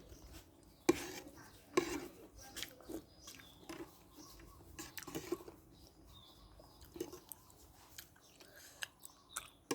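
Close-up chewing and wet mouth smacks of a person eating, broken by irregular sharp clicks about once or twice a second.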